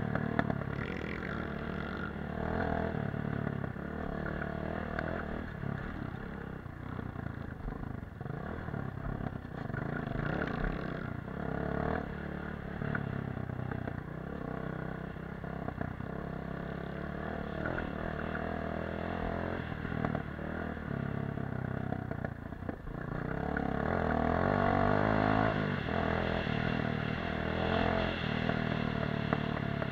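Dirt bike engine running under way off-road, its pitch rising and falling with the throttle. It grows louder for a few seconds about three-quarters of the way through.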